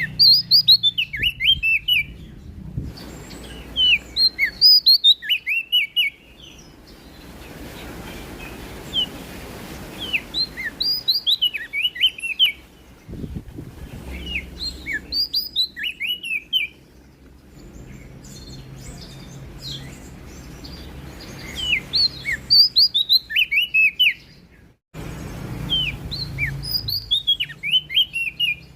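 Prenjak daun songbird singing: repeated phrases of quick, high, sharply falling notes, each phrase about two seconds long, with pauses of a few seconds between them.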